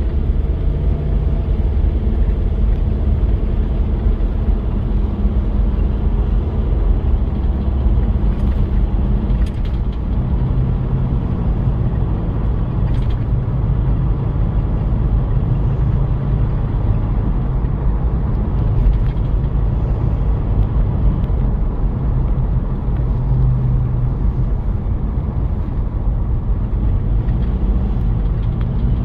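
1993 Toyota Prado's diesel engine running steadily while driving, with a low drone whose pitch drifts up and down as engine speed changes, over road noise.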